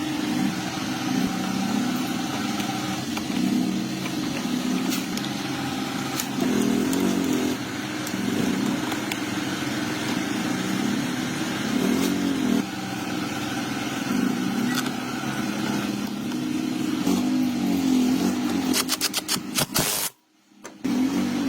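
A small motorcycle engine running, its revs rising and falling over and over. Near the end there is a quick run of clicks, then the sound cuts out briefly.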